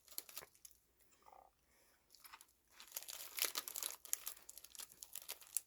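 Crinkling and crackling of a plastic snack-cookie wrapper being handled and opened, sparse at first and busier from about three seconds in.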